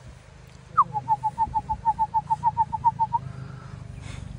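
A bird calling: one short falling note, then a quick, even run of about fifteen short whistled notes on one pitch, about six a second, over a steady low rumble.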